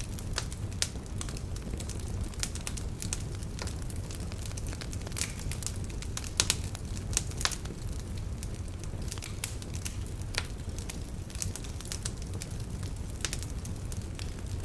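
Wood fire in a fireplace crackling: a steady low hiss and rumble of burning logs with many irregular sharp pops and snaps, a few louder pops around the middle.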